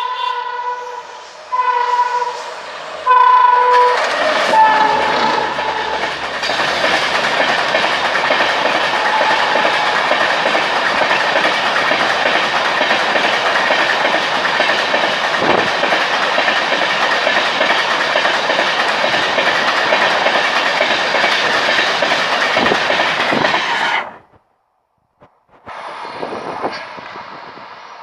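An Indian Railways train horn gives three short blasts and then a lower one. A train then passes at speed, its wheels clacking over the rail joints for about twenty seconds before the sound cuts off suddenly. A shorter, quieter stretch of passing-train noise follows near the end.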